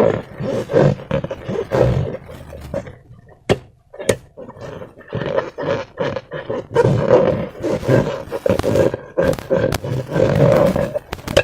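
Rubber balloon filled with slime being squeezed and worked by hand: squeaking rubber and squelching slime in irregular bursts, with a brief lull about four seconds in.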